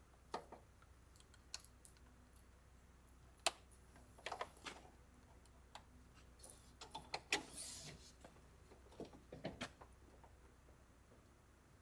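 Scattered light clicks, taps and knocks of objects being handled, the sharpest click about three and a half seconds in, with a short rustle near eight seconds.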